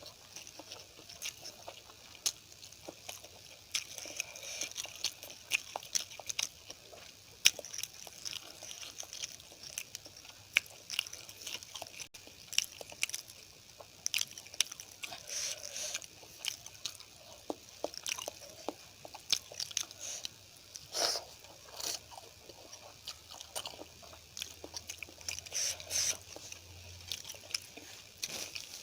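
Close-miked eating: chewing and biting with many small, irregular wet mouth clicks, as a meal of curry, rice, poori and sambar is eaten.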